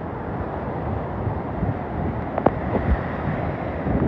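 Hurricane-force wind blowing steadily and buffeting the microphone, with one sharp knock about two and a half seconds in.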